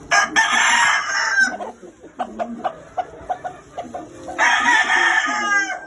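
Game rooster crowing twice, two long crows about three seconds apart, each trailing off with a wavering fall, with short clucks and pecking sounds in between.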